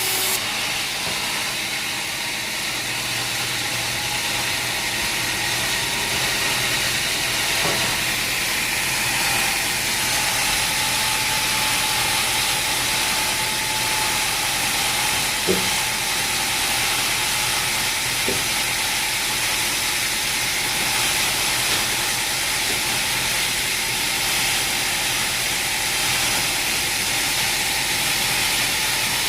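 Sawmill machinery running with a steady, loud hiss over a faint hum, and a few light knocks.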